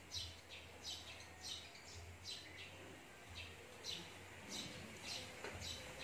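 A small bird chirping over and over, short high chirps about two a second.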